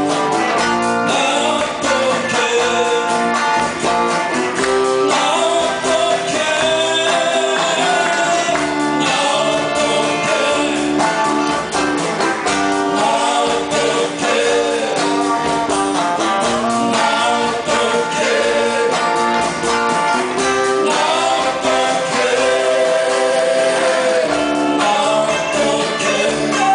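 Live band playing a 7080-era Korean pop song: guitars and steady chords under a sung melody line.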